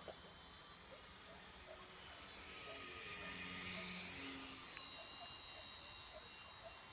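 Brushless electric motor and propeller of a small RC model airplane whining high in pitch in flight, swelling as it passes closest about four seconds in, then dropping slightly in pitch and fading.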